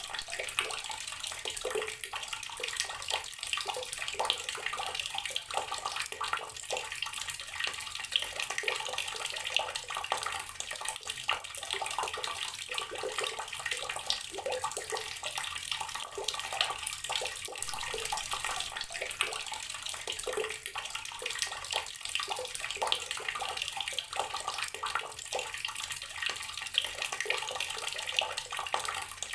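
Water running from a tap in a steady stream, splashing continuously into a basin with a constant rush and irregular small splashes.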